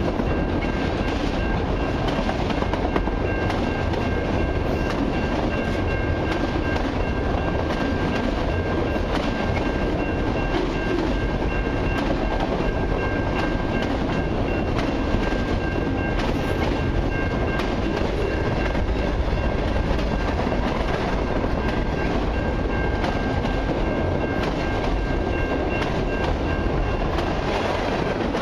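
Long freight train's autorack and freight cars rolling past, a steady rumble with the wheels clacking over the rail joints. A thin, steady high ringing tone sits over the rumble and fades out near the end.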